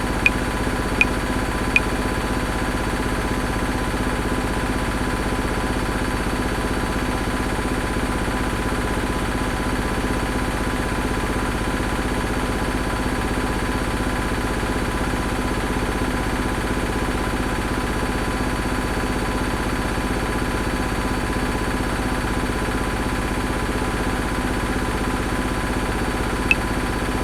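Washing machine running with a steady mechanical hum and a faint regular pulsing. Sharp metronome clicks at 80 beats per minute sound three times near the start, stop, and come back once just before the end.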